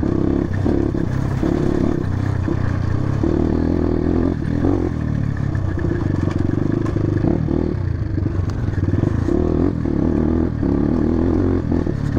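Motorcycle engine running while riding, its revs rising and falling, with clattering and scraping mixed in.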